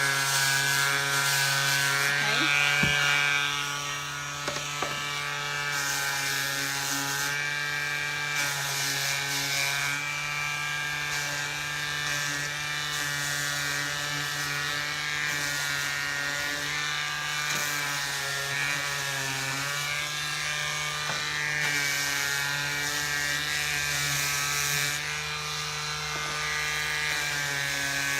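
Electric sander running steadily, its motor humming, with a rasping hiss that swells and fades as the sandpaper is worked along the edge of a cut wooden board. It is a little louder for the first few seconds.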